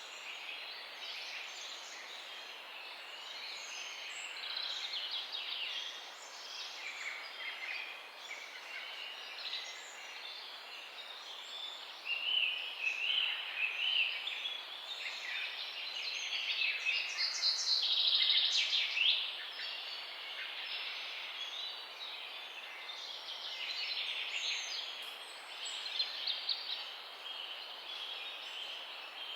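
Several birds chirping and singing at once in a dense morning chorus, with many short overlapping calls. A louder, fast run of notes stands out about two-thirds of the way through.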